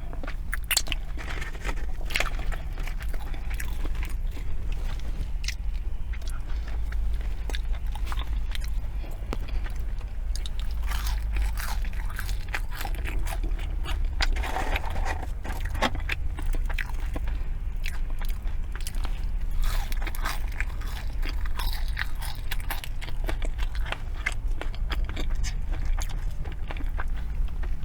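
Close-miked eating sounds: a person biting and chewing a McDonald's McRib sandwich, with many small crunches and wet mouth clicks. A steady low hum runs underneath.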